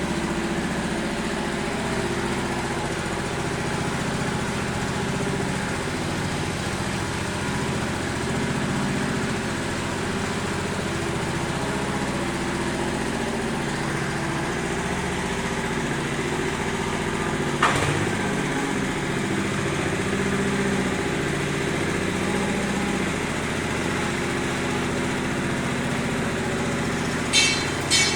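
Small petrol engine of a concrete-finishing machine running steadily at constant speed, with one brief knock about two-thirds of the way in and a few sharp clicks near the end.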